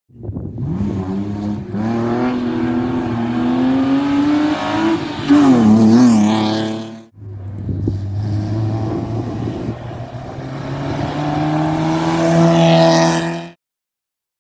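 Rally car engine accelerating under load, its pitch climbing steadily, with the pitch dipping and rising quickly a couple of times about five to six seconds in. It cuts off suddenly about seven seconds in and a second clip of a rally car engine climbing in pitch follows, ending abruptly near the end.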